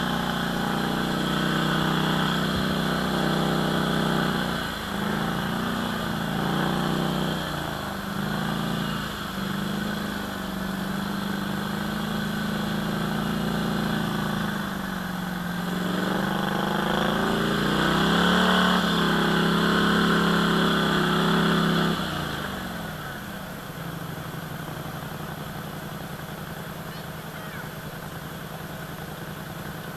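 ATV engine running, its pitch rising and falling as the throttle opens and closes, then dropping to a quieter, steady lower note about two-thirds of the way through.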